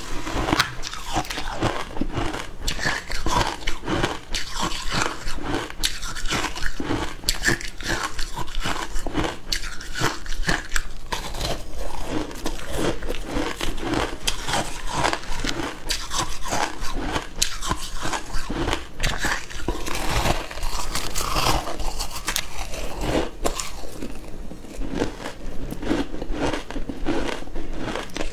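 Frozen matcha ice being bitten and chewed, a dense run of sharp crunches one after another.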